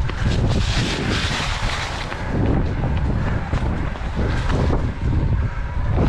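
Wind buffeting the microphone of a camera moving fast down a mountain trail, a steady low rumble with scattered rattles and clicks from the rough ground. The rush grows louder about one to two seconds in.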